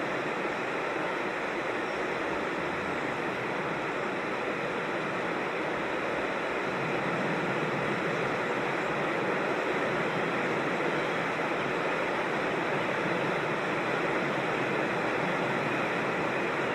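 Creek water rushing steadily, an even unbroken rush with no change in level.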